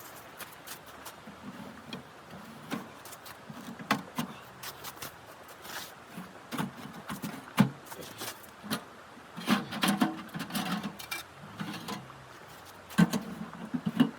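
Irregular knocks and clicks with clusters of dull thuds, loudest about two-thirds of the way in and again near the end.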